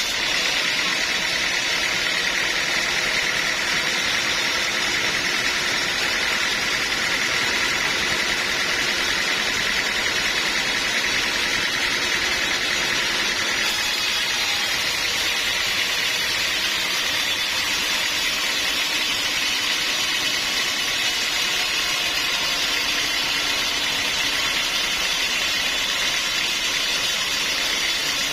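Sawmill machinery running steadily: a constant mechanical drone with a strong, even hiss, unchanging in level throughout.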